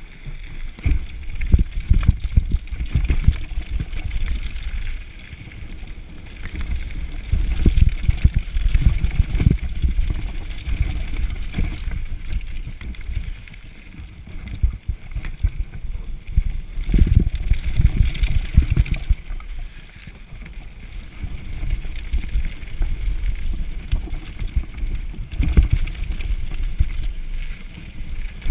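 Mountain bike descending a downhill trail at speed: wind buffeting the microphone in waves, with short knocks and rattles of the bike over rough ground.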